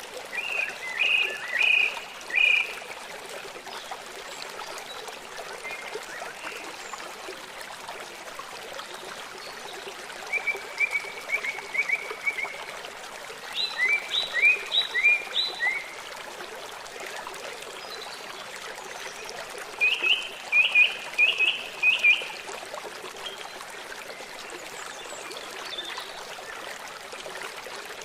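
Songbird phrases of quick, evenly repeated high notes, four bursts of about two seconds each, over the steady rush of running water from a stream.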